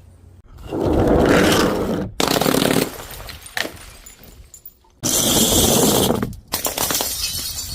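A run of separate crushing and breaking sounds, each cut off abruptly and followed by the next. The loudest stretch, about five seconds in, has a bright, hissing crackle.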